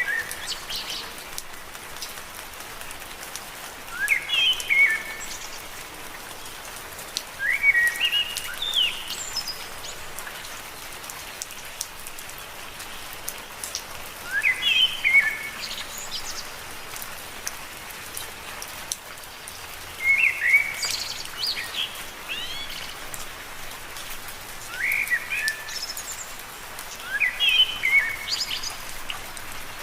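Steady rain with fine drop ticks, and a songbird singing short chirpy phrases of quick up-and-down notes every few seconds.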